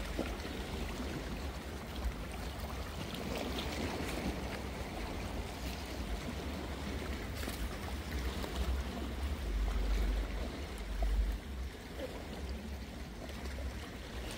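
Water washing and sloshing at the shoreline over a steady low rumble.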